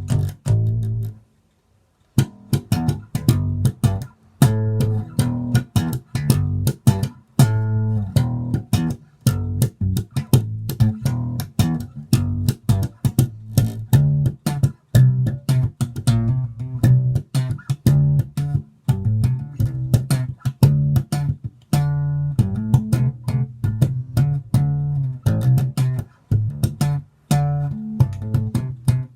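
Epiphone EB-3 short-scale electric bass played on its own, a steady run of plucked notes in a riff. The playing stops briefly about a second in and resumes about a second later.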